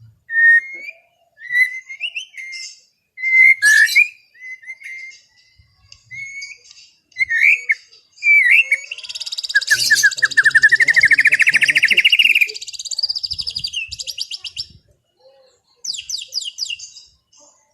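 White-rumped shama (murai batu) singing: a run of short clear whistled notes, then about halfway through a long fast rattling trill that rises in pitch, followed by short rapid trills near the end.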